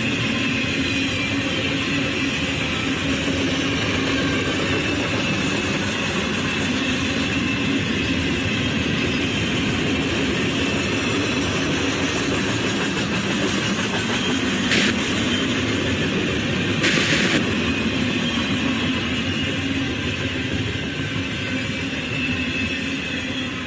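Norfolk Southern double-stack intermodal freight train rolling past, a steady din of steel wheels on the rails as the container cars go by. Two short, sharp noises stand out about fifteen and seventeen seconds in.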